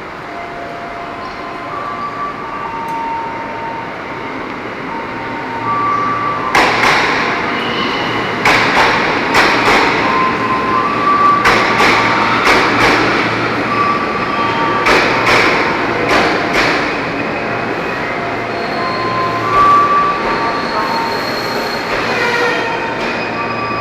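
KRL Commuter Line electric train running: a steady rumble with high whining tones that step up and down in pitch, and from about six seconds in a run of sharp clacks lasting some ten seconds.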